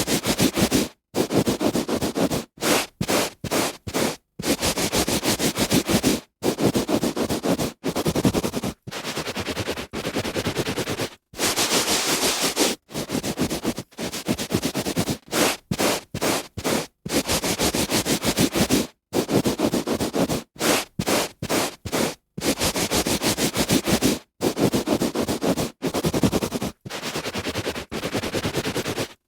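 A hand rubbing back and forth on carpet: a run of scratchy, brushing strokes, some quick and short, some drawn out for a second or two, each broken off by a brief pause.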